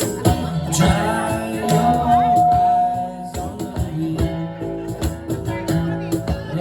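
Live band music with drum strokes and a long held note near the middle.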